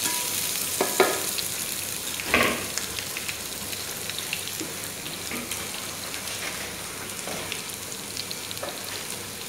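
Julienned carrot strips sizzling and crackling in hot oil in a nonstick frying pan. There are a couple of brief knocks about one second and two and a half seconds in, the second the loudest.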